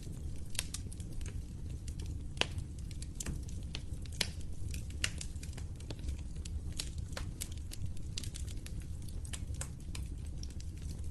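Wood fire in a fireplace crackling, with frequent, irregular sharp pops over a steady low rumble of the flames.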